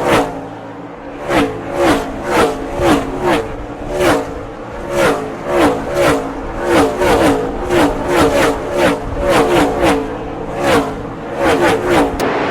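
NASCAR Cup stock cars' V8 engines at full speed, passing one after another in a close pack. About twenty go by, each engine note dropping in pitch as the car passes, some in quick succession and others a little apart.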